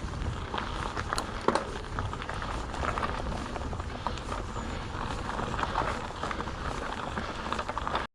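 Mountain bike rolling over a rough track: steady tyre noise and low rumble with scattered rattling clicks.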